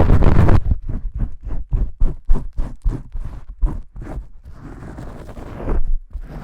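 Close-miked ASMR shampooing: fingers scrubbing hard through soapy lather, first a dense continuous rub, then quick rhythmic strokes about five a second, easing into a softer rub after about four seconds with a louder swell near the end.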